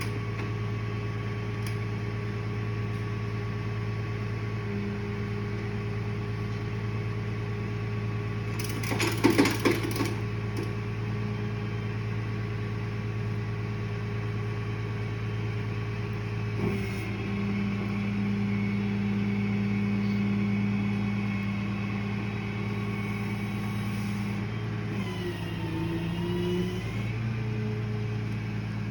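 A motor running steadily with a low hum, its pitch stepping up a couple of times and dipping and rising briefly near the end. A short burst of rattling clicks comes about nine seconds in.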